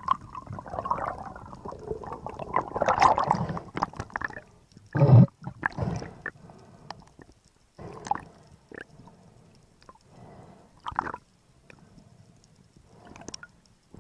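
Underwater sound: gurgling and bubbling for the first few seconds, a loud low surge about five seconds in, then scattered irregular knocks and clicks.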